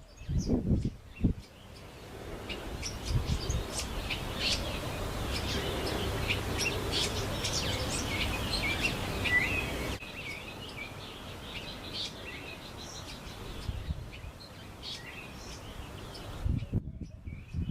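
Small birds chirping in quick, short, high calls over a low outdoor background noise that drops about ten seconds in.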